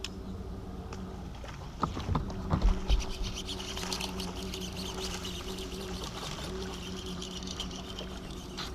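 A largemouth-type bass blows up on a hollow-body topwater frog: loud splashes about two seconds in. Then a dense high hiss and crackle as braided line is reeled in under load with the fish on, over a steady low hum.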